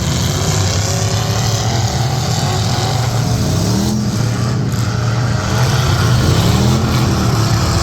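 Demolition derby truck engines running hard, revving up and dropping back again and again, getting louder about five and a half seconds in.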